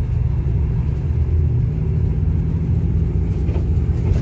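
Steady low rumble of an SRT Special Express diesel railcar train.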